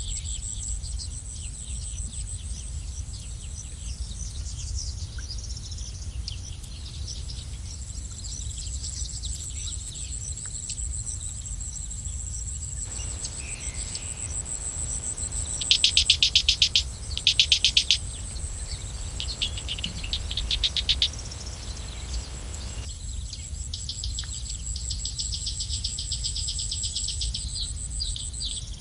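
Small songbirds chirping and trilling over a steady, high-pitched insect drone, with a low background rumble. About halfway through, two loud, rapid trills stand out above the rest.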